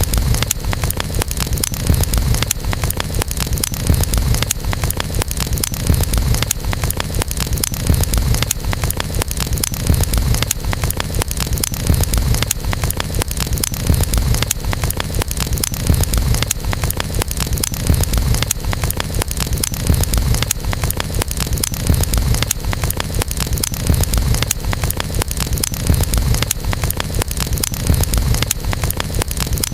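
Campfire burning: a dense run of crackles and pops over a steady low rumble that swells about every two seconds.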